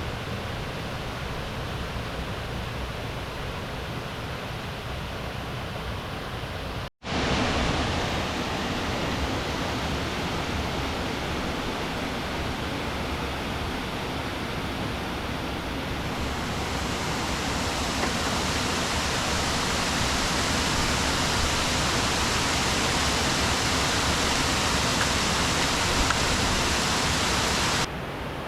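Steady rushing of river water, with no clear rhythm or pitch. It cuts out for an instant about seven seconds in and returns louder, gets brighter and louder again past the middle, and drops back just before the end.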